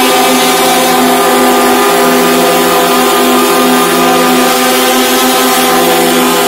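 Truck air horns sounding together in one long, steady, loud chord of several held tones.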